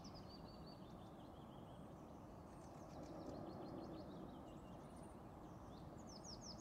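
Faint outdoor birdsong: short trills of quick high notes, one near the start, a longer one about two to four seconds in and another near the end, over a soft low background noise.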